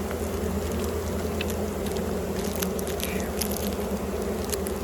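A mass of honeybees buzzing steadily around opened hives, with a low, even drone and scattered light clicks over it.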